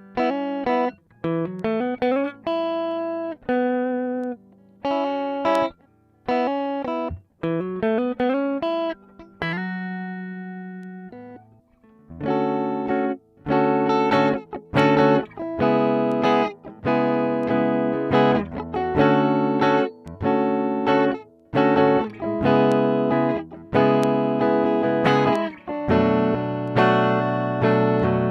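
Squier Bullet Mustang electric guitar played clean on its neck pickup: picked chord notes with short gaps, one chord left ringing and fading about ten seconds in, then steady rhythmic strummed chords from about twelve seconds on.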